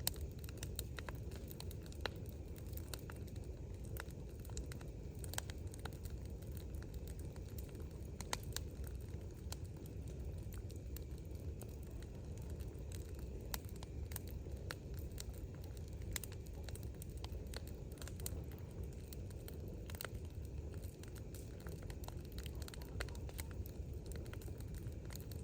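Large wood bonfire burning, with frequent irregular sharp crackles and pops over a low steady rush.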